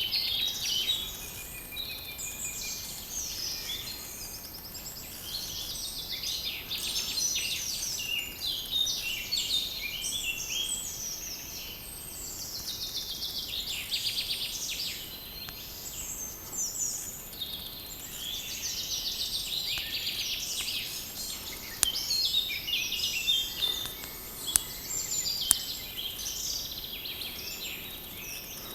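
Several songbirds singing at once in woodland: a dense chorus of overlapping high chirps, trills and whistles. A few sharp clicks come through in the second half.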